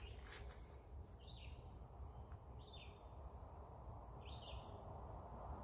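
A bird calling the same short, high note three times, about a second and a half apart, faintly, over a low steady rumble.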